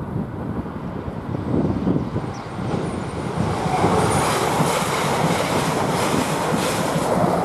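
Electric multiple unit train passing at speed, its rushing wheel-and-rail and air noise swelling about three seconds in as it goes by close. Wind buffets the microphone underneath.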